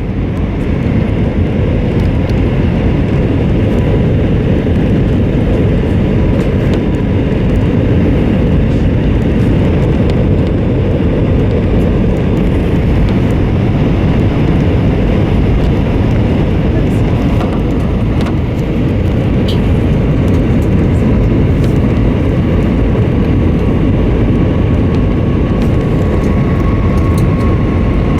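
Loud, steady roar and rumble inside the cabin of an Airbus A320 in motion, from engine and airflow noise. It swells over the first second, and a faint steady whine joins it about two-thirds of the way through.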